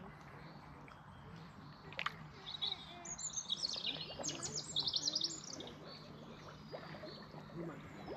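A songbird singing a quick run of high, rapidly repeated notes, loudest in the middle of the stretch, over faint outdoor background noise, with a single sharp click a couple of seconds in.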